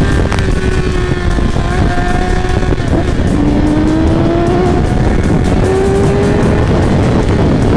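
Superbike engine pulling hard under way, its note climbing and dropping back at gear changes about three seconds in and again about five seconds in, over heavy wind rush on the helmet microphone.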